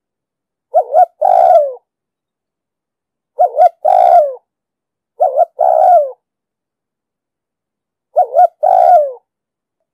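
Spotted dove cooing: four calls, each a quick double note followed by a longer coo that falls in pitch at the end, with pauses of one to two seconds between calls.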